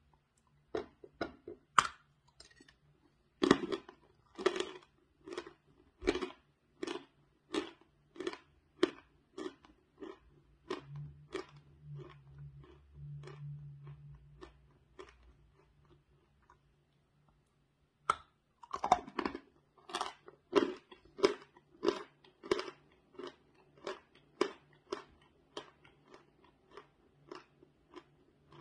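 Dry chalk bar being bitten and chewed: crisp crunches between the teeth at a steady chewing pace of a little over one a second. A lull comes in the middle, then a fresh bite and more crunchy chewing.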